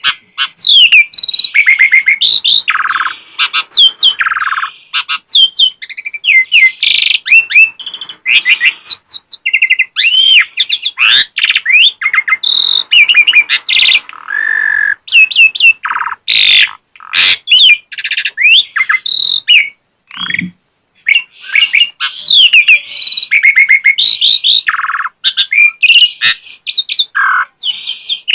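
An Asian pied starling (jalak suren) singing at full tilt: a loud, nonstop run of varied whistles, rising and falling glides, and rapid chattering phrases, with only short pauses.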